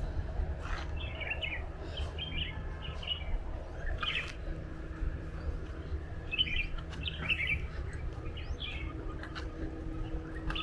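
Birds chirping in short, quick phrases, repeated every second or so, over a steady low rumble.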